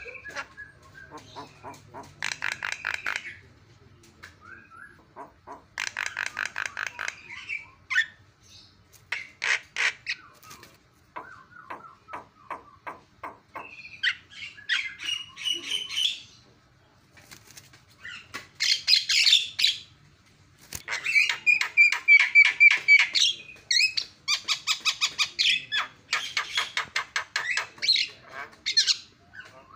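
Javan myna (jalak kebo) singing in bursts of rapid, harsh chattering notes, each phrase about a second or two long with short gaps between. The phrases grow louder and denser in the second half.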